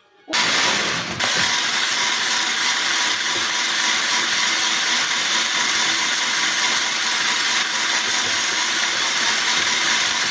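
A small electric motor appliance running steadily at full speed, switched on abruptly about a third of a second in, with a whirring, gear-driven grind.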